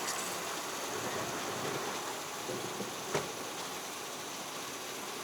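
Petrol pump nozzle filling a motorcycle's fuel tank with gasoline: a steady rushing hiss of fuel flow, with one short click about three seconds in.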